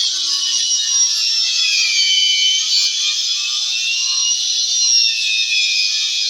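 High-pitched whine of a power tool working on the wooden speaker box, its pitch wavering up and down as the load changes.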